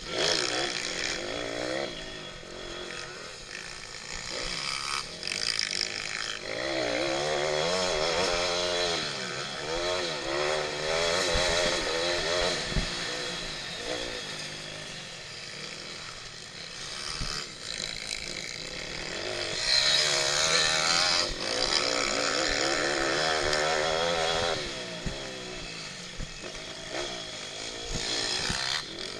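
Pit bike engines racing, revved hard and eased off again and again, the pitch climbing and dropping every second or two.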